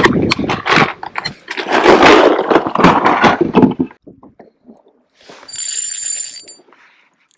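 Loud scraping and rustling close to the microphone, with many clicks and knocks. After a short lull come a few soft clicks, then a brief hiss with a thin high whine near the end.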